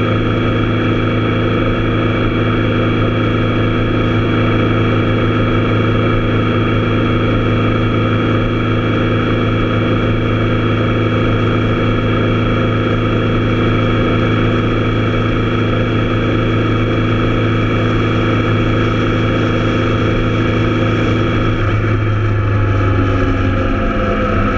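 Triumph Tiger Explorer's three-cylinder engine running at a steady cruising speed, holding one engine note, with road and wind noise; near the end the revs drop and the note falls as the bike slows.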